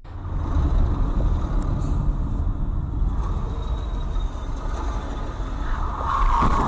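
Vehicle driving noise picked up by a dash cam: a steady low engine and road rumble with hiss. It cuts in abruptly at the start and grows a little louder and brighter near the end.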